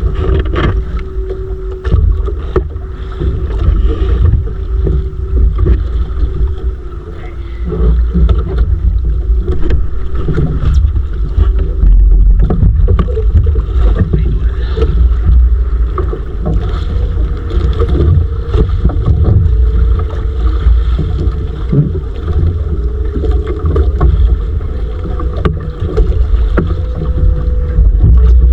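Motorized bangka under way: its engine running steadily with a constant drone that creeps slightly higher in pitch near the end, with wind buffeting the microphone and scattered knocks.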